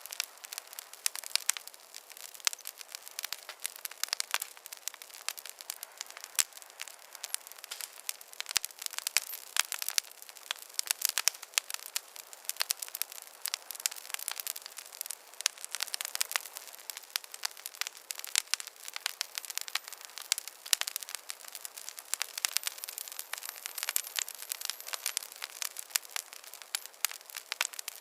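Wood fire crackling: a dense, irregular run of sharp pops and snaps, light and bright, with no low rumble beneath.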